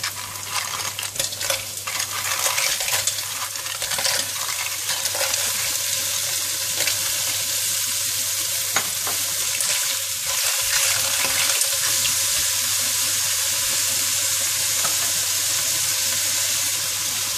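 Lala clams tipped into a hot stainless steel wok of oil, garlic, onion and ginger: the shells clatter against the metal for the first few seconds, then a steady sizzle of frying takes over.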